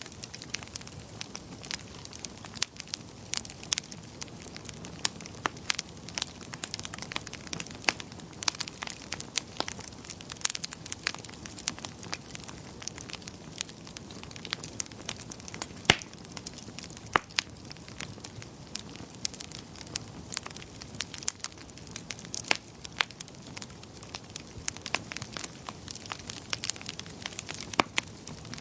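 Wood fire in a fireplace crackling: irregular sharp pops and snaps over a soft, steady hiss, with one louder pop about sixteen seconds in.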